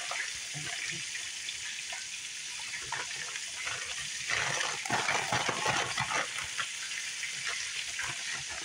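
Floured cube steaks searing in hot oil in a cast-iron skillet, giving a steady sizzle. Louder spitting and crackling comes about halfway through.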